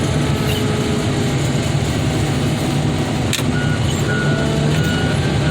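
Diesel engine of heavy car-crushing equipment running steadily. There is a sharp click a little past three seconds in, and a reversing alarm begins beeping at an even pace about halfway through as the machine backs up.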